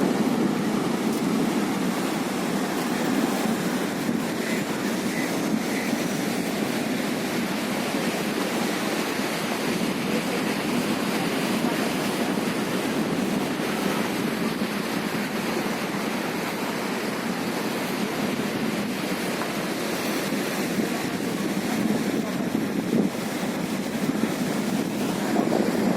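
Sea surf washing in steadily, with wind noise on the microphone.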